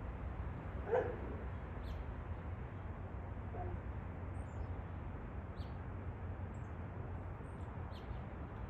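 One short, loud bark-like animal call about a second in and a fainter one a couple of seconds later, with brief high bird chirps scattered throughout over a steady low background hum.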